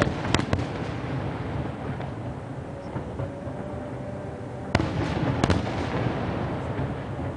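Aerial firework shells bursting: sharp bangs just after the start and two more about five seconds in, with a low rumbling echo between them.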